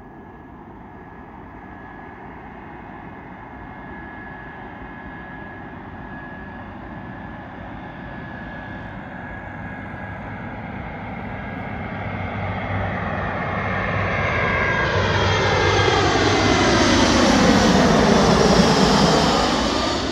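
Jet airliner's engines on approach to land: a steady high whine and rushing noise grow steadily louder as the plane comes in and passes, with a sweeping whoosh at its loudest near the end, then begin to fade.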